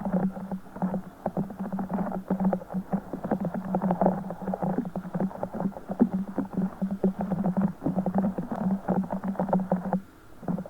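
A broken Orbeez ball (a ball of squishy water beads) squeezed and squished close to the microphone, giving a dense, rapid crackling squish that breaks off briefly about ten seconds in.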